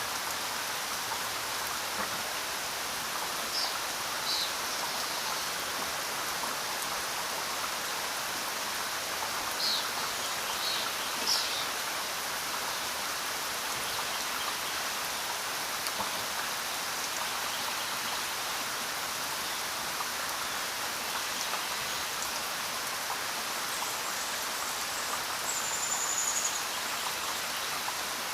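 Steady rain falling, an even hiss of drops on the ground and leaves. A few short high chirps come through the rain, with a brief high trill near the end.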